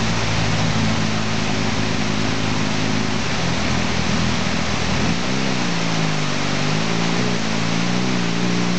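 Waterfall rushing in a steady, full roar, with a vehicle engine running underneath; a little past halfway the engine's pitch rises and falls, as if it is revving or changing gear on the road.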